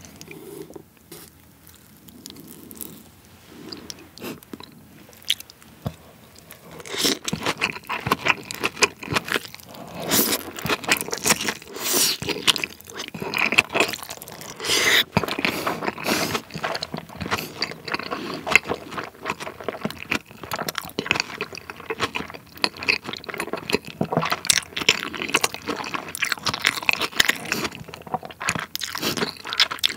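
Close-miked chewing and biting of giant salmon nigiri topped with sliced raw onion and white mayonnaise-based sauce, loud and wet, beginning about seven seconds in. Before that, only faint light taps and scrapes as the sauce is spooned on.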